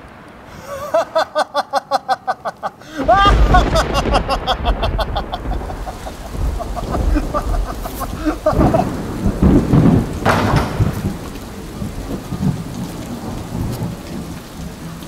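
Thunderstorm: heavy rain and a loud clap of thunder come in suddenly about three seconds in, followed by rumbling and another loud surge of thunder around ten seconds. Just before the first clap, a fast pulsing pitched sound repeats about six times a second.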